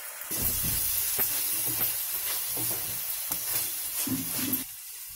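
Chopped onions, garlic, ginger and green chillies sizzling in hot oil in a kadai, with red chilli sauce just added, as a spoon stirs them and scrapes the pan in repeated strokes. The sizzle starts about a third of a second in and cuts off suddenly near the end.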